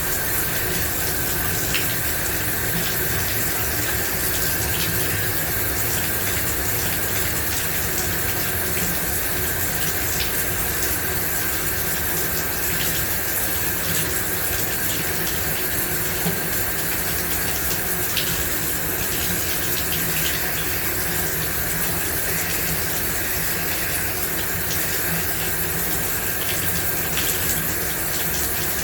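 Shower running steadily, a constant spray of water with small droplet splashes.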